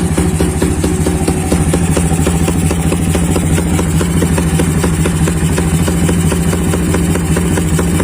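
Yamaha Vixion's single-cylinder four-stroke engine idling steadily through an aftermarket racing exhaust, with a rapid, even run of exhaust pulses and no revving.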